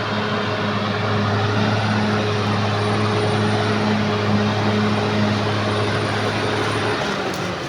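Caterpillar D6R XL bulldozer's diesel engine running steadily under work, with a steady hum whose note drops near the end.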